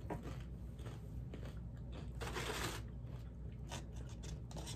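Close-miked chewing of a crunchy tortilla chip: soft crunches and small mouth clicks, with a longer crisp crunch a little past two seconds in.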